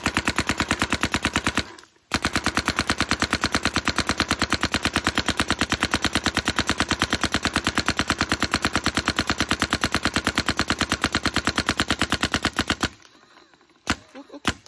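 Smart Parts Ion electropneumatic paintball marker firing rapidly: a short string of shots, a brief pause, then about eleven seconds of continuous rapid fire, and two single shots near the end.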